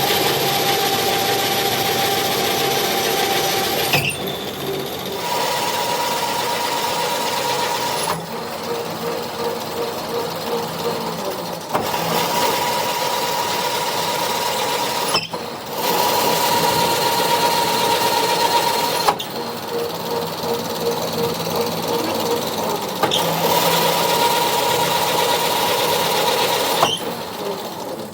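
Workshop machinery running, heard as a string of short segments that change abruptly every few seconds. Loud hissing stretches alternate with steadier stretches that carry a held tone and a fast pulsing hum.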